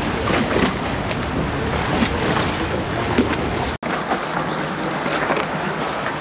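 Canal-side ambience: a steady low rumble of boat traffic with water and wind noise on the microphone. A sudden brief drop-out comes about four seconds in, after which the low rumble is lighter.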